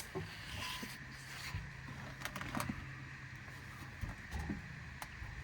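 A low, steady hum, like a distant engine, with a few faint clicks.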